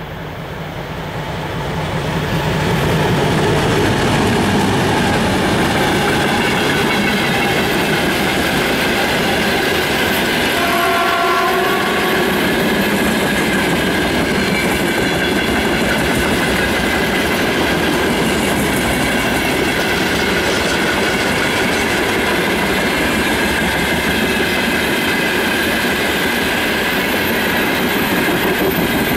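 2TE10U twin-section diesel locomotive running louder as it draws near and passes, with a short horn note about eleven seconds in. Then the steady rumble and clickety-clack of a long train of loaded gondola wagons rolling by.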